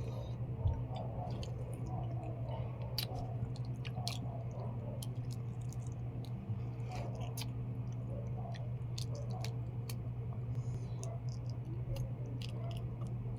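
Close-up chewing of balot, with small wet mouth noises and scattered light clicks, over a steady low electrical hum.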